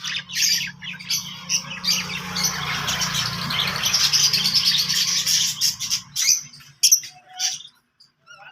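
Birds chirping and squawking in quick, overlapping calls, over a steady low hum that stops about six seconds in.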